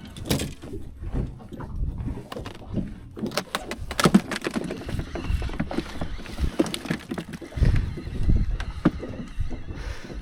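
Irregular knocks, clicks and rattles of handling gear on a small fishing boat, over a low rumble of wind on the microphone.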